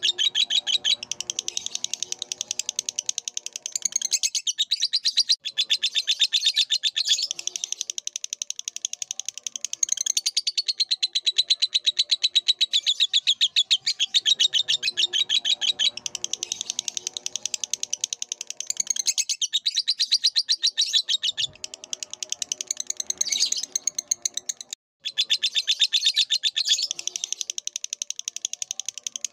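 Lovebird chattering song: long runs of rapid, high-pitched chirps repeated many times a second, broken by a few short pauses.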